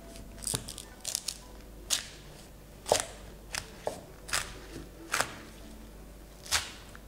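A sharp knife cutting through a whole pineapple, crunching through the tough rind and fibrous flesh in short, irregular strokes, about a dozen crunches in all.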